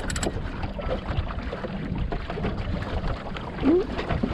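Steady water and wind noise aboard a small sailboat under way, with scattered knocks, a quick rattle of clicks at the start and a short rising squeak about three and a half seconds in.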